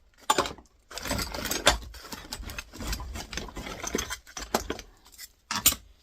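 Small steel scrap parts being handled and knocked together: irregular metallic clinks, knocks and scrapes, with sharper knocks about a third of a second in, around a second and a half in, and shortly before the end.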